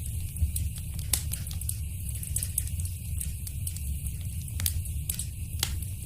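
Fireplace fire crackling: a steady low rumble of burning under irregular sharp pops and snaps, the loudest pop about a second in and two more strong ones near the end.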